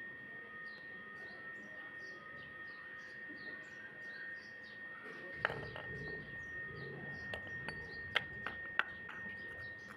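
Clay pot being crushed: from about halfway in, crunching with sharp cracks of breaking clay, several loud snaps standing out near the end.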